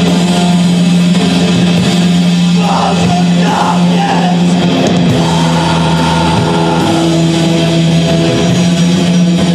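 Live rock band playing loud, heavily distorted electric guitar music over a held low note.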